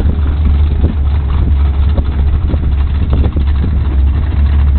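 Stock 1989 Mustang's 5.0-litre V8 running at a steady idle as the car creeps forward toward the staging line.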